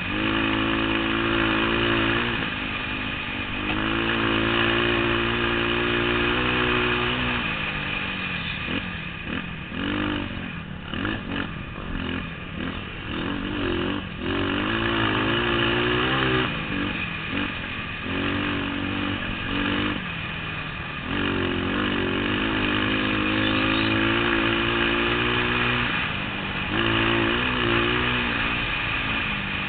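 Trail motorcycle engine running under way. Its pitch holds steady for stretches, then goes rough and uneven in the middle, falling and rising with throttle changes.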